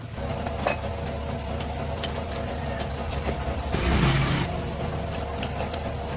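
Old bulldozer's diesel engine running steadily, with a brief burst of hiss about four seconds in.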